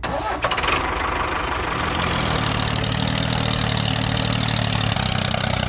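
An engine starting with a quick rattle, then running steadily with a low hum, as a small tractor's would.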